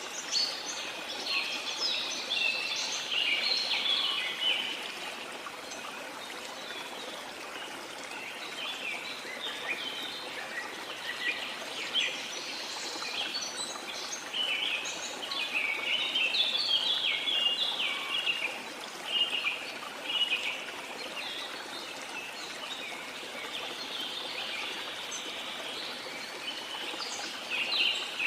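A flock of small birds chirping busily and continuously over a steady wash of sea water. The chirping thickens in bouts, at the start, in the middle and near the end.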